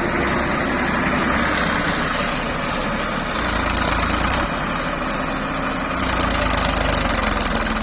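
Tractor engine running steadily, its sound shifting a few times as it works.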